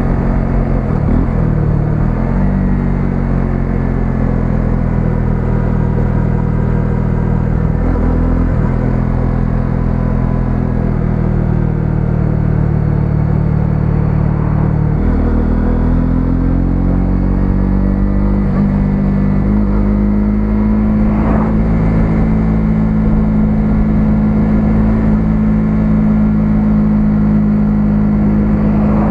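A 125cc single-cylinder motorcycle engine running while riding. Its pitch drops and climbs back a couple of times as the rider shifts and accelerates, then it holds a steady cruising note in the second half.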